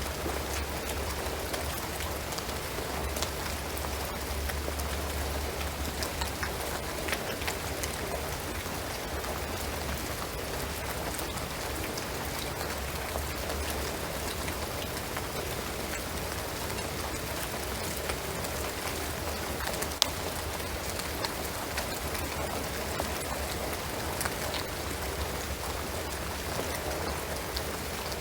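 Steady rain falling on a shingled roof and pine trees: an even hiss with many individual drops ticking, and one sharper drop about twenty seconds in.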